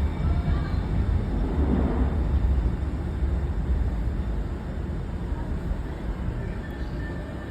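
A Docklands Light Railway B23 stock train running on the track, a low rumble that eases off gradually as the train slows.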